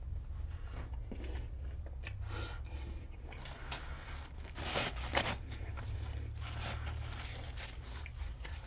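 A person chewing a mouthful of tortilla wrap filled with beef in barbecue sauce. The chewing comes as scattered soft, wet mouth noises and rustles, loudest about five seconds in, over a steady low hum.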